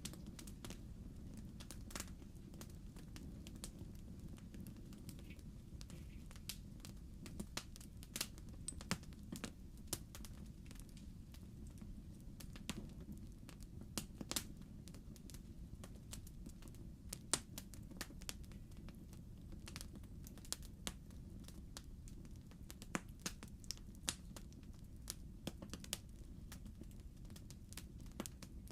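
Logs burning in a fireplace, crackling with irregular sharp pops and snaps over a steady low rumble of the fire.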